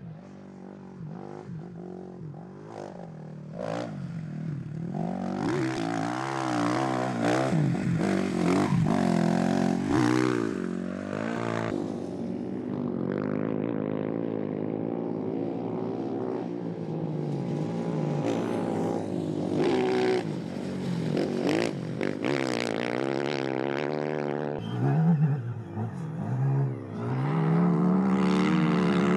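Rally motorcycle engines revving hard in soft sand, the pitch rising and falling as the throttle opens and closes. It starts faint and grows louder over the first few seconds.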